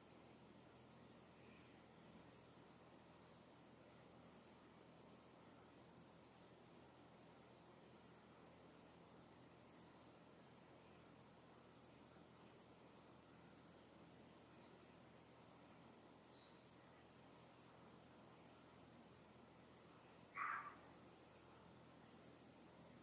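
Faint, high-pitched chirps of a distant bird, repeated about once a second, with one short, lower call about twenty seconds in, over a faint steady hiss.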